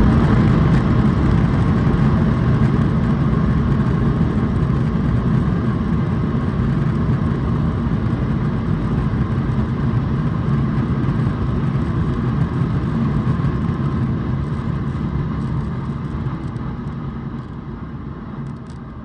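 Cabin noise of an Akasa Air Boeing 737 MAX airliner landing: a steady, deep rumble of engines and airflow that slowly dies away, fading most in the last few seconds.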